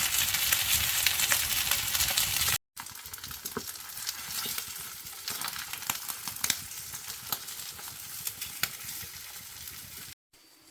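Cakes frying in hot oil in a pan, sizzling with a steady crackle and frequent small pops. It is loud for the first two and a half seconds, then drops abruptly and goes on more quietly with scattered pops.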